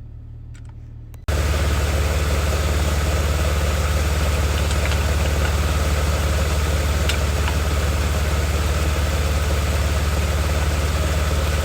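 BMW 330xi's 3.0-litre inline-six engine idling steadily, heard loud and close from under the car with a strong low hum. About a second in the sound jumps suddenly from quieter to much louder, then holds steady.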